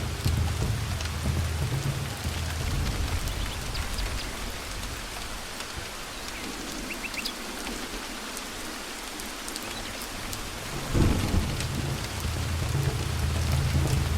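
Steady rain with rolling thunder. The low rumble dies away in the middle, then a sudden thunderclap about eleven seconds in sets off a fresh roll of thunder under the rain.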